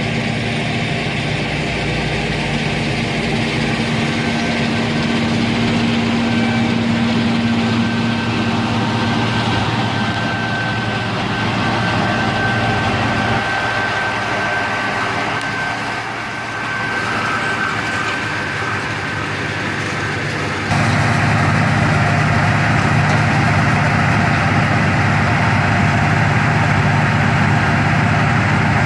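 Heavy farm machinery engines running steadily with a low hum, changing abruptly about 13 seconds in and again about 21 seconds in.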